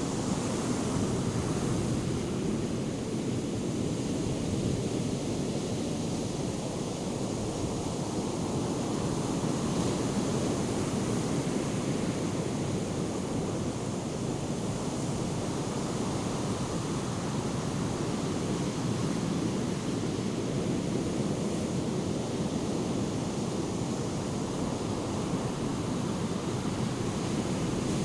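Ocean surf from hurricane swell breaking along the shore, a steady, even wash of noise.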